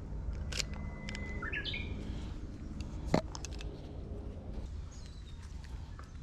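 Birds chirping and whistling over a low steady hum that fades out about four seconds in. About three seconds in there is a single sharp camera shutter click, the loudest sound.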